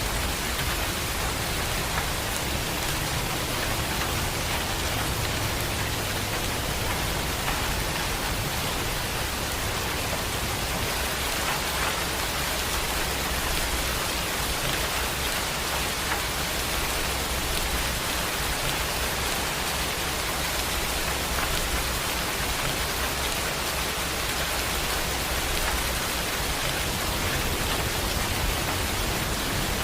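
Heavy rain falling steadily, an even hiss with a low rumble underneath and no distinct thunderclaps.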